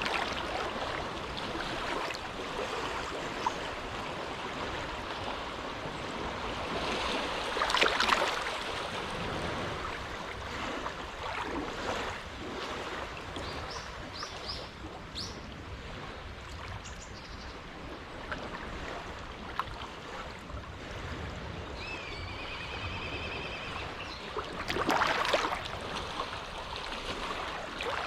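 Small waves lapping at the shore of a calm cove, with two louder washes about 8 and 25 seconds in. A bird gives a short, high, warbling call a little before the second wash.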